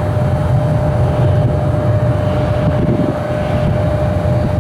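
Airliner jet engines running: a steady low rumble with a steady high whine over it.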